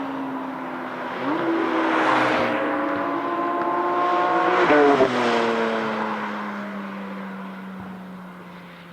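Porsche 992 GT3 RS's naturally aspirated flat-six, breathing through a Brillsteel Edizioni Corsa aftermarket exhaust, accelerating past. The engine note climbs steadily, drops sharply in pitch as the car passes about five seconds in, then fades away.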